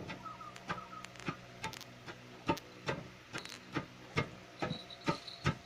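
Pestles striking a lesung rice-pounding mortar as paddy is pounded: a run of sharp knocks, about three a second at uneven spacing.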